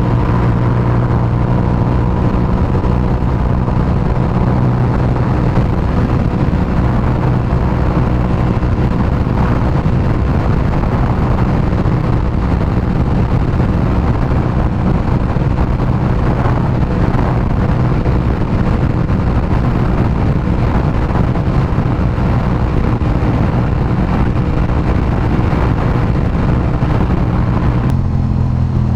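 Aprilia RS 660's parallel-twin engine running at a steady pace on the move, with rushing wind noise. Near the end the engine note drops.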